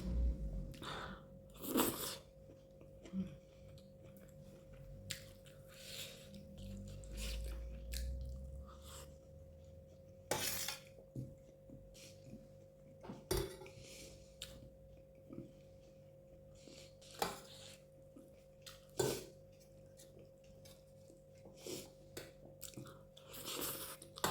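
Cutlery clinking against a plate in scattered, separate clicks, with soft chewing between them. A faint steady hum runs underneath.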